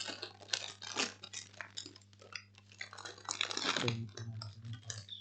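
Crinkling, crackling and crunching close to the microphone, in irregular runs with the busiest stretch about three to four seconds in: a snack bag being handled.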